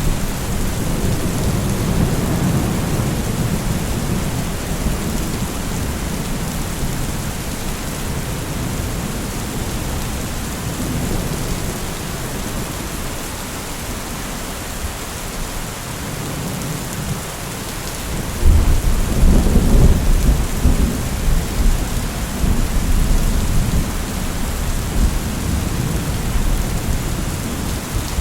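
Steady rain with rolling thunder. A deep rumble fades over the first few seconds; about two-thirds of the way in a louder clap of thunder breaks and rumbles on in pulses under the even hiss of the rain.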